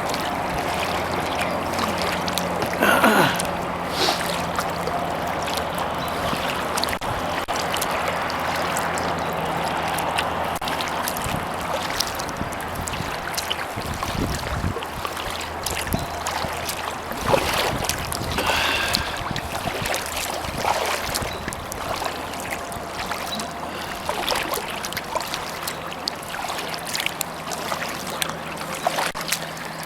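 Kayak paddle strokes with water splashing and trickling off the blades, over a steady low hum of highway traffic with heavy trucks.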